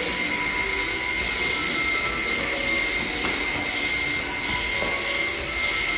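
A small electric motor running steadily, with a constant high whine over an airy hiss, typical of a barber's electric tool in use.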